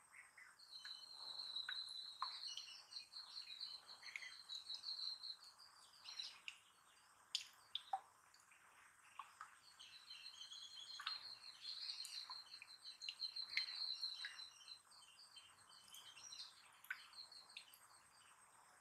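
Faint bird song: two long, rapid warbling phrases at a high pitch, one near the start and one about ten seconds in, with scattered short chirps and clicks between them.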